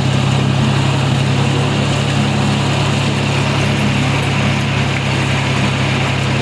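Tractor engine running steadily while pulling a seed drill across the field, a constant low drone with some mechanical rattle.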